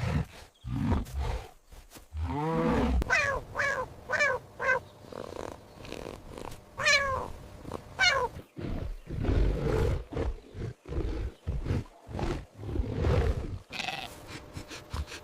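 Recorded animal calls: low growling rumbles alternate with runs of short, high-pitched cries, four quick ones near the start and two longer ones a little later.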